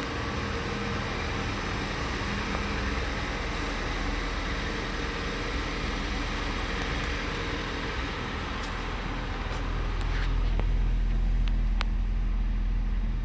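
2015 Kia Forte's 2.0-litre four-cylinder engine idling steadily. The low rumble grows louder about ten seconds in, and a few sharp clicks come near the end.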